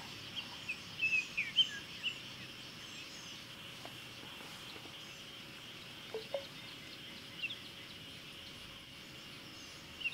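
Small birds chirping over a steady outdoor background hiss, with quick chirps in a cluster during the first two seconds and only a few scattered calls after that.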